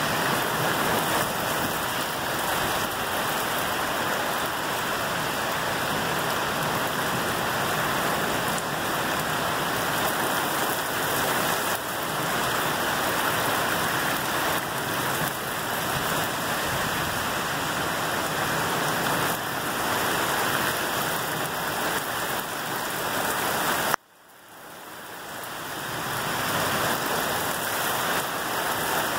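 Heavy thunderstorm rain, a dense steady hiss of downpour. About 24 seconds in the sound cuts out suddenly and builds back up over a couple of seconds.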